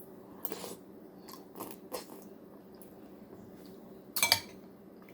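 Metal spoon clinking against a soup bowl during eating, several short soft clicks, with a louder clink about four seconds in.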